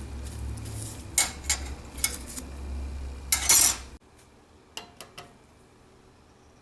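Metal parts clinking and knocking as they are handled, over a low steady hum. About three and a half seconds in comes a louder scraping rattle, then the hum stops abruptly. A few lighter clicks follow.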